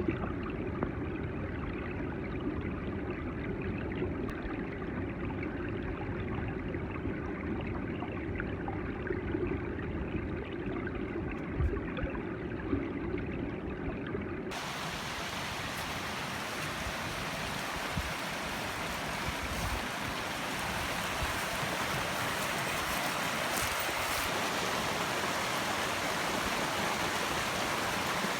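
Running water of a small mountain stream flowing steadily. About halfway through it changes abruptly from a duller rush to a brighter, hissier one.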